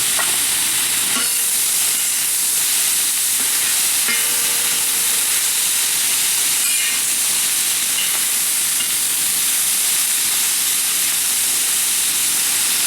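Chicken and vegetables sizzling in a hot carbon-steel wok over a charcoal fire, a steady hiss with a few short scrapes as they are stirred about a second, four seconds and seven seconds in.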